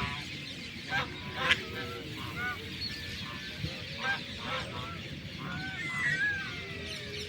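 A group of ducks calling: many short, overlapping calls one after another, the loudest about a second and a half in.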